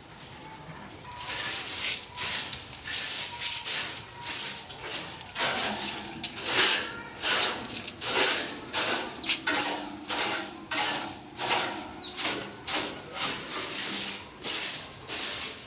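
Rhythmic scraping strokes, a little under two a second, like a hand tool worked back and forth over a surface, starting about a second in.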